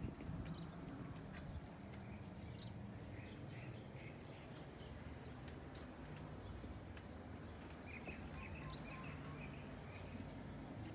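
Quiet ambience with a steady low hum, small birds chirping briefly about three seconds in and again near eight seconds, and scattered light clicks and footsteps.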